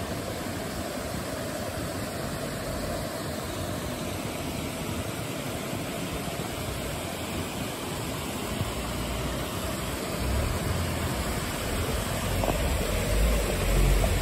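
Steady rushing of a mountain river flowing over rocks. From about ten seconds in, a deep rumble grows under it, like wind buffeting the microphone.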